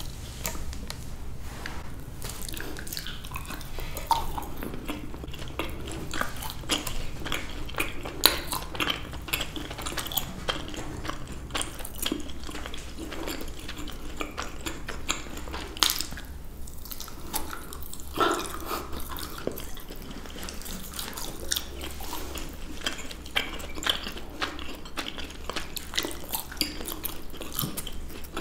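Close-miked chewing and biting of fruit, including pieces of dried papaya, as a dense run of short mouth clicks and smacks with a few louder ones.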